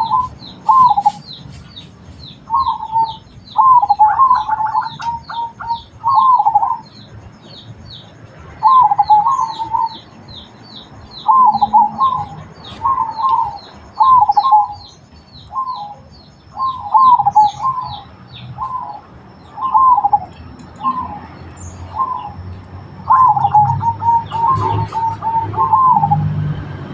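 Zebra doves (perkutut) cooing, a short bubbling coo phrase every second or two with a longer rolling phrase near the end, over a fast run of high chirps from small birds.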